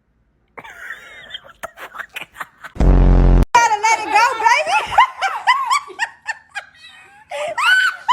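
A loud, short low thump about three seconds in, followed by several seconds of laughter in quick rising-and-falling bursts.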